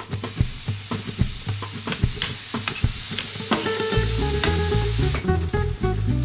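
Food sizzling in a frying pan while being stirred, with repeated clicks and scrapes of the utensil against the pan. The sizzle cuts off about a second before the end, while background guitar music comes in over the last couple of seconds.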